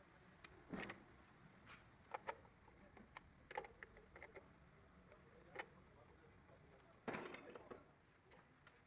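Faint, irregular clicks and knocks, like small hard objects being handled, with a louder cluster of knocks about seven seconds in.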